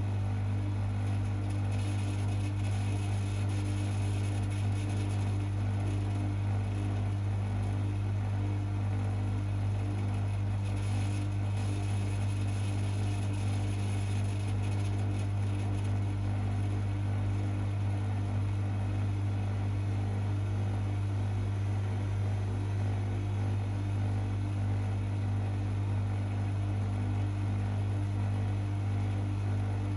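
Privileg 5020 front-loading washing machine running steadily mid-programme, a constant mechanical hum with no pauses or changes in speed.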